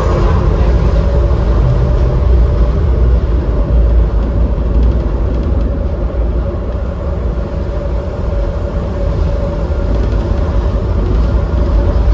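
Interior running noise of a Docklands Light Railway B92-stock train: a continuous deep rumble with a steady hum held on one pitch above it.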